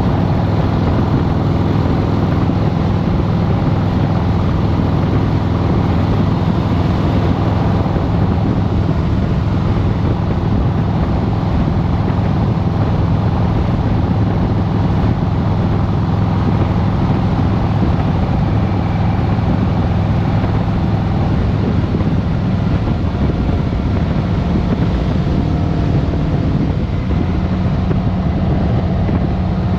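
2023 Harley-Davidson Road Glide Special's Milwaukee-Eight V-twin engine, with a Stage 1 Screaming Eagle air cleaner, running steadily, its pitch shifting slightly near the end.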